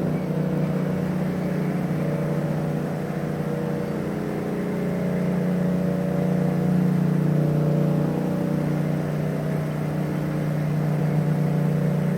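2015 Yamaha FZ-07's 689 cc parallel-twin engine running steadily under way through an aftermarket Akrapovic titanium exhaust. It gets slightly louder around the middle as the throttle varies a little.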